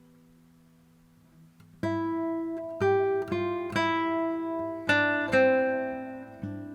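Background music on acoustic guitar: after a brief low lull, a run of strummed chords, each ringing out before the next.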